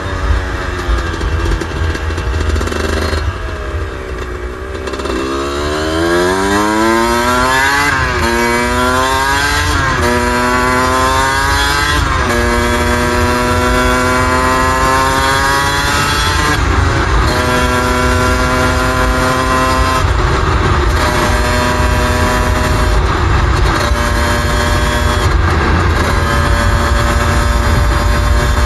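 Suzuki RM125 two-stroke dirt bike engine, under way. It slows about four seconds in, then accelerates up through three gears, rising in pitch and breaking off at each shift, then holds a steady speed with a few brief dips. Heavy wind rumble runs under it.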